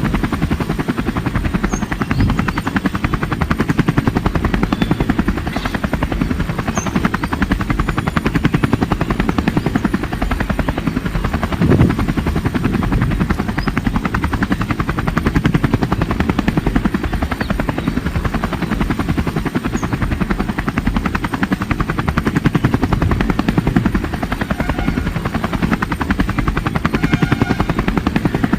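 Helicopter main rotor running with a loud, steady, fast chop, with one short louder thump about twelve seconds in.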